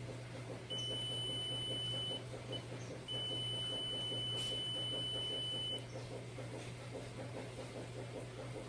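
Multimeter continuity beeper sounding a steady high tone for about a second and a half, a brief blip, then again for nearly three seconds. The beep means the probes across the fan's on/off switch find a closed circuit.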